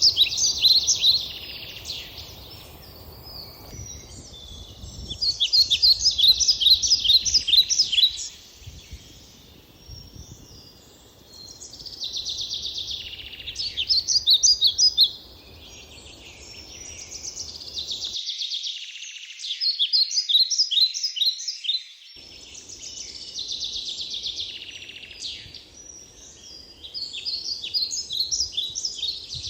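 Songbirds singing outdoors: short phrases of quick, high, repeated notes, each lasting a second or three, coming every few seconds. A low rumble runs underneath.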